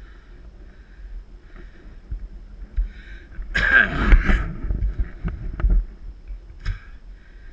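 Mountain bike riding over a dirt trail: a low rumble of tyres and wind with scattered knocks and rattles, and a louder burst of clatter for about a second midway through.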